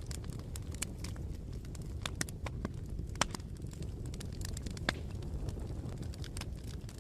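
Wood fire burning: a steady low rumble of flames with irregular sharp crackles and pops, two louder pops a little after three seconds and near five seconds in.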